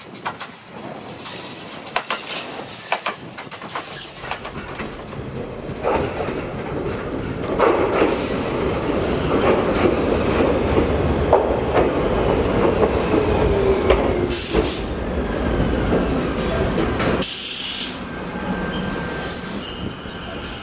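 Ichibata Electric Railway electric trains running in. Wheels clack over the rail joints, and midway a whine falls in pitch as a train slows. Wheel squeal and a short burst of hiss come near the end.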